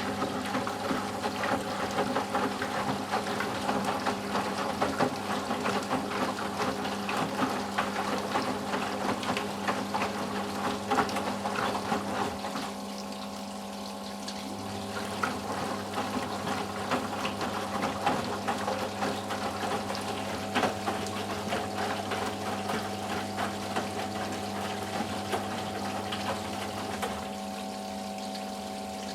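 Eudora Sparmeister 702 washing machine in its rinse cycle: water sloshing as the drum turns, pausing for about two seconds near the middle before it starts again, over a steady low hum.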